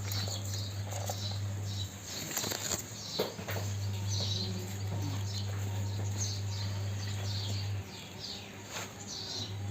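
A steady low electrical hum that drops out briefly about two seconds in and again near the end, with scattered short high chirps and a few light clicks over it.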